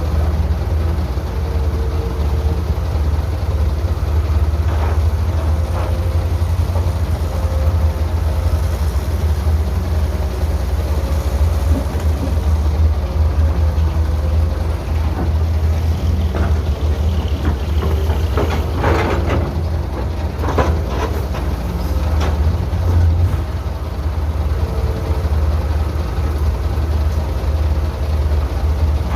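Heavy construction machinery's diesel engines running steadily. Around two-thirds of the way through comes a brief cluster of metallic clanks and squeals.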